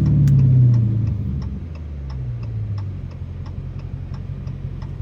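Straight-piped 6.4-litre HEMI V8 of a 2023 Dodge Challenger Scat Pack, heard from the driver's seat: the revs fall off after a pull over the first few seconds, then the engine settles into a lower, steadier run. A light ticking, about three a second, runs alongside it.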